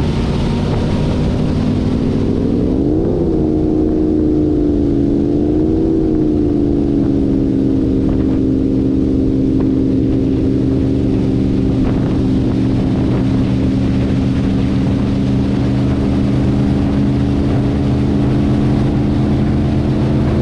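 Twin big-block V8 engines of an Avanti 33 powerboat running. The revs rise and fall twice in the first six seconds or so, then hold at a steady pitch.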